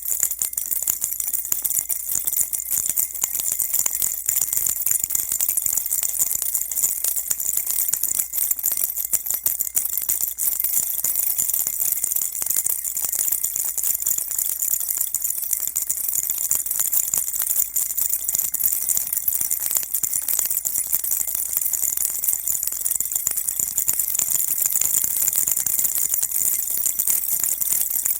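A baby rattle shaken steadily and continuously: a dense, high-pitched jingling patter of tiny beads or bells with no breaks.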